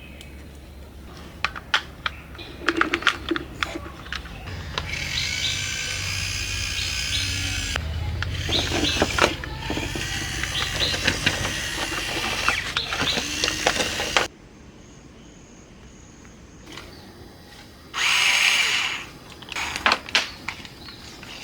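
Small electric motor whirring steadily for about ten seconds, preceded by a series of clicks and knocks, then cutting off abruptly; a short burst of whirring comes again near the end.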